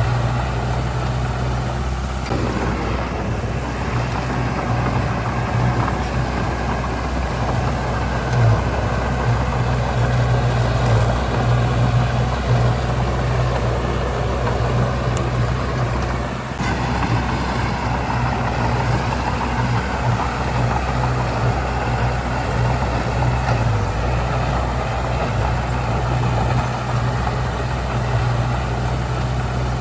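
Heavy construction machine's diesel engine running steadily, a continuous low drone with grinding mechanical noise over it; it briefly dips about 16 seconds in.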